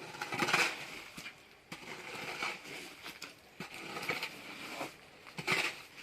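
Gritty scraping strokes of spilled cement mortar being scraped up off the ground, coming irregularly every second or so.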